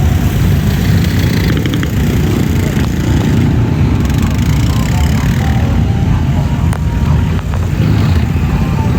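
Loud, steady engine rumble from off-road vehicles running.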